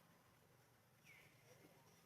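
Near silence: faint outdoor background with one faint high chirp about a second in.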